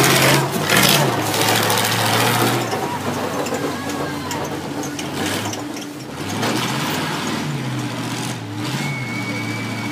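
Several demolition derby cars' engines running and revving up and down as the cars push against each other. A steady high tone sounds near the end.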